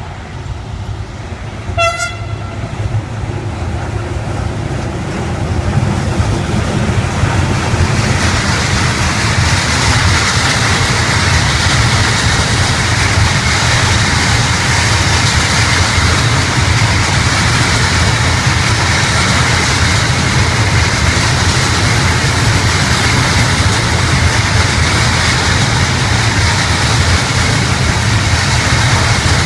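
A train gives a short horn toot about two seconds in, then the noise of a train builds over several seconds and it runs past loudly and steadily, a continuous rush of wheels on rails.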